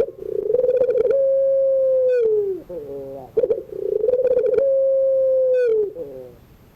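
Puter pelung (Barbary dove) cooing: long drawn-out coos, each a held note that sags in pitch at its end, broken by a short stuttering, wavering phrase. Two full coo phrases, the last fading out about six seconds in.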